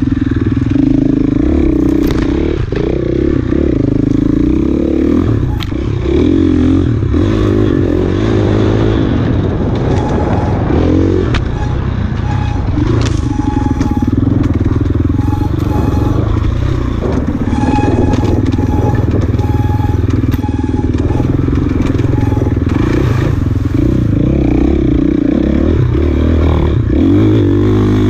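Enduro dirt bike's engine revving up and down without a break as it is ridden hard over rough trail, with knocks and clatter throughout.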